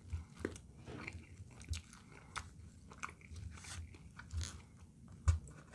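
A person chewing a mouthful of food close to the microphone, with soft, irregular clicks.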